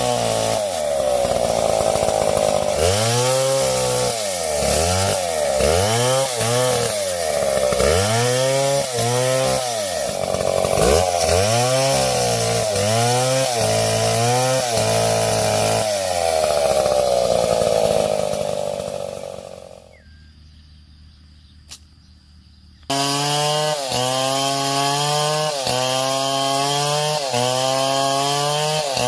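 Two-stroke chainsaw cutting wood, its engine pitch repeatedly dropping under load in the cut and climbing back. About two-thirds of the way through it drops away for a few seconds, then comes back running with a regular dip in pitch about once a second.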